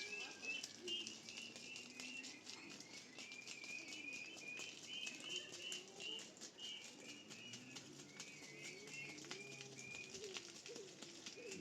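Small birds chirping in a long run of short, high calls, with a low wavering cooing beneath and scattered faint clicks.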